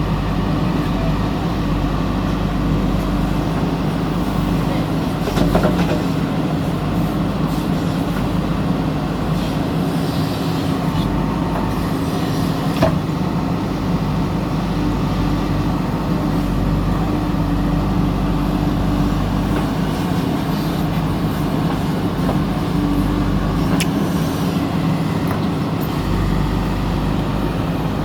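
Diesel engine of heavy earthmoving machinery running steadily, with a few short metallic knocks as it works.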